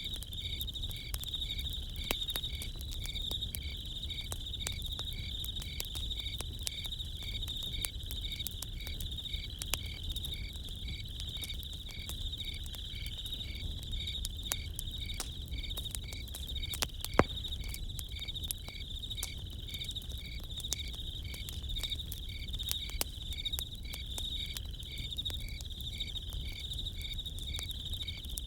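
Crickets chirping steadily in a continuous high chorus, with a second insect pulsing at a slow, even rhythm, over a crackling campfire that gives frequent small pops and one sharper crack a little past halfway.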